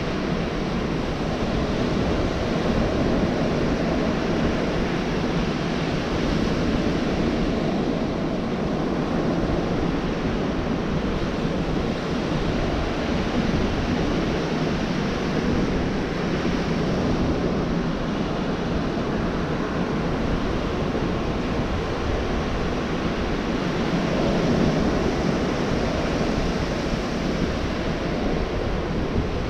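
Gulf of Mexico surf breaking on a beach, a steady wash of waves that swells and eases gently, with wind noise on the microphone.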